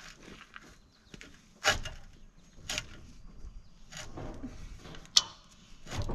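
Cheap ratchet tie-down straps being worked: a few sharp metal clicks and clacks about a second apart, with rustling handling noise between them.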